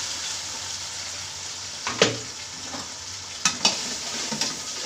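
Chilli, garlic and ginger paste sizzling in hot oil with fried onions in a steel pot as it is stirred, with a few sharp clicks of a utensil against the pot about two seconds in and again later.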